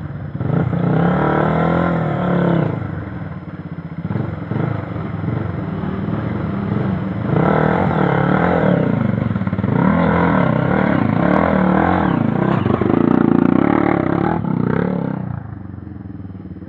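Off-road trail motorcycle engines revving hard in repeated surges, the pitch climbing and falling with the throttle. The engines drop back to a quieter idle about a second before the end.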